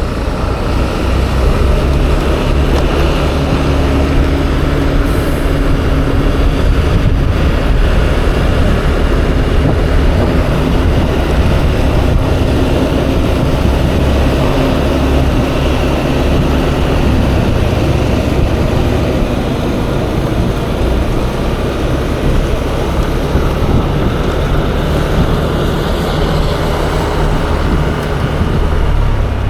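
Yamaha Aerox 155 scooter's single-cylinder engine running steadily while riding, under a heavy rush of wind on the microphone.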